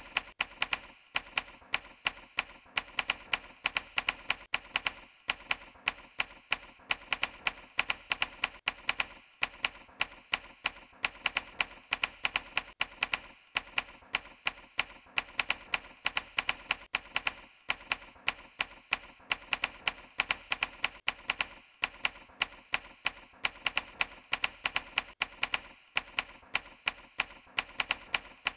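Continuous rapid clicking, several sharp clicks a second in uneven runs broken by brief pauses.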